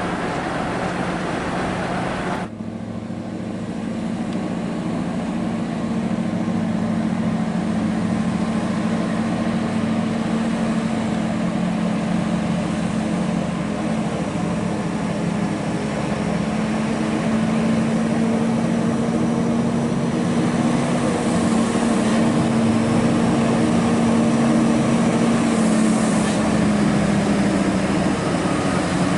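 Scania R580's V8 diesel engine running steadily as the heavy truck drives along, with a low, even engine note; the sound changes abruptly about two seconds in, and the note rises slightly later on before easing near the end.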